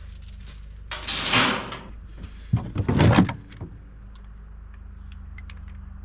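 Rusted steel chains being handled, rattling and clanking in two loud bursts, over a steady low machine hum.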